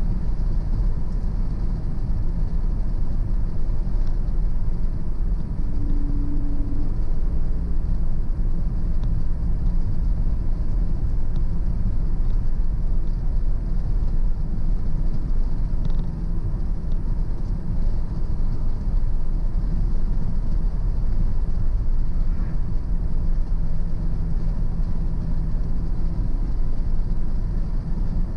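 Car driving steadily on the road, a constant low rumble of engine and tyre noise.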